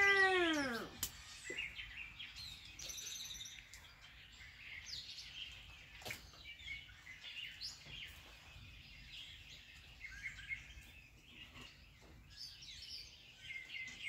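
Birds chirping, many short calls scattered throughout. In the first second a louder drawn-out pitched call rises and then falls away.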